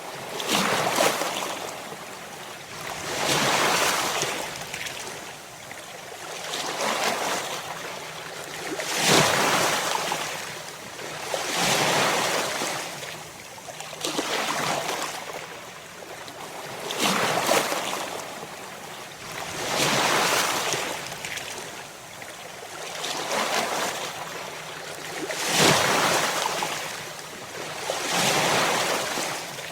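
Ocean waves breaking in surf: a rushing hiss of water that swells and fades again about every three seconds.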